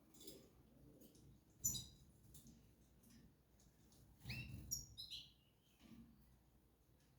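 Small cage birds giving a few short, faint chirps: one about a second and a half in, together with a soft knock, and a quick cluster of chirps around four to five seconds in.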